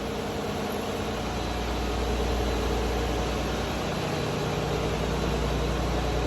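Steady drone of ship's engine-room machinery: a strong low hum with several steady tones over a noisy wash, getting a little louder about two seconds in.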